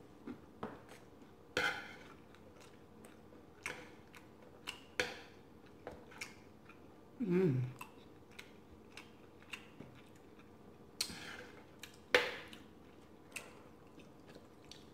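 Close-up chewing and crunching of crispy fried food, with irregular sharp clicks of a spoon against the plate and food. About halfway through comes a short hum falling in pitch.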